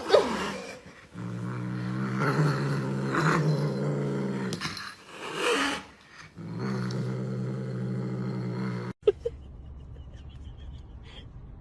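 A dog growling in two long, low, steady growls with a short break between; the second stops abruptly near the end.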